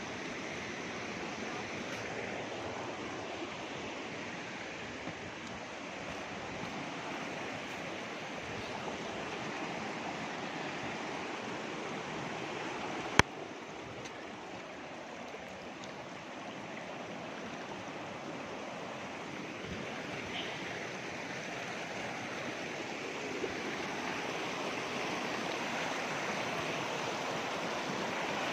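Lodh waterfall's water rushing and splashing in a steady, continuous roar. There is a single sharp click about halfway through.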